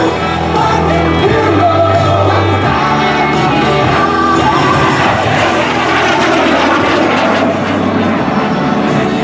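Lockheed T-33 Shooting Star's jet engine passing by, its noise swelling in the middle and falling in pitch as it goes past, over music on the loudspeakers.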